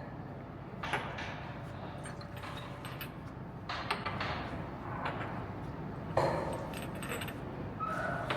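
A few clinks and knocks of glassware and other items being handled and set down, over a steady low hum of the room.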